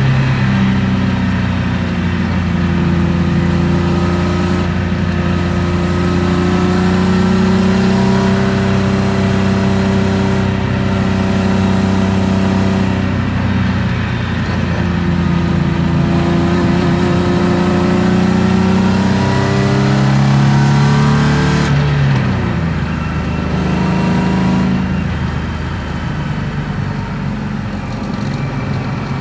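BMW M50B25 2.5-litre inline-six with aftermarket headers and exhaust, heard from inside the car's cabin while driving, its revs climbing and falling under throttle. About three-quarters of the way through the pitch drops sharply as the revs fall, and the engine runs a little quieter after that.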